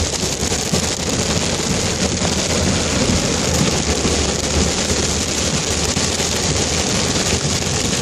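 Rain falling steadily, a loud continuous hiss with a low rumble underneath.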